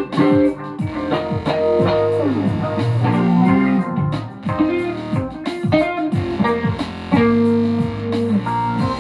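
Guitar music: plucked guitar notes with frequent pitch bends and slides.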